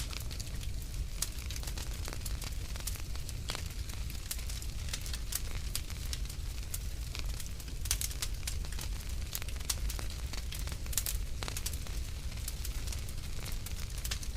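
Wood fire crackling in a fireplace, with frequent irregular sharp pops and snaps over a steady low rumble of the flames.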